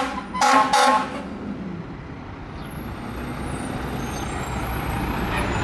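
Fire truck air horn sounding one short blast about half a second in, ending a run of blasts. It is followed by the steady rumble of a passing fire truck's engine, slowly growing louder.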